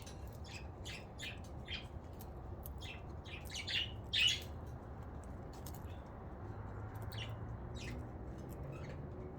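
Budgerigars chirping: short, scattered high chirps throughout, a little louder around four seconds in, over a low steady hum.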